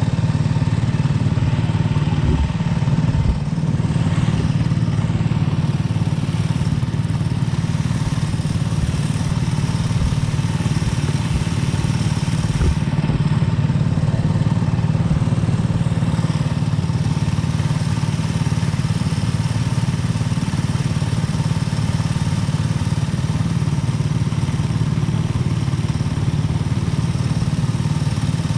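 Kart engine running at a steady pitch, heard close up, with a few short low knocks about two to three seconds in and again about twelve seconds in.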